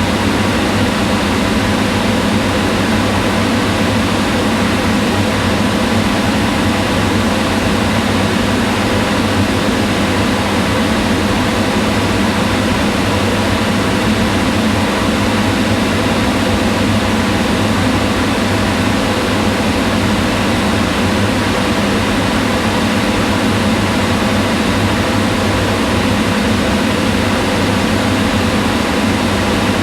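Kitchen range hood's exhaust fan running steadily: an even whooshing hum with a low drone underneath, unchanging throughout.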